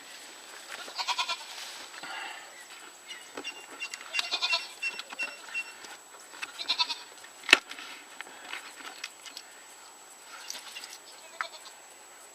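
Several short bleating animal calls, four or five times. About seven and a half seconds in comes a single sharp snap, the loudest sound.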